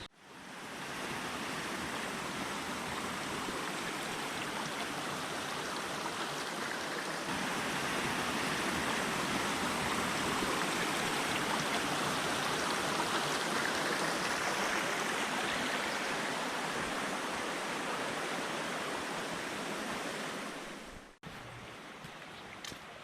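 Mountain stream rushing over rocks, a steady wash of water that swells slightly through the middle and cuts off abruptly near the end, giving way to a quieter wash.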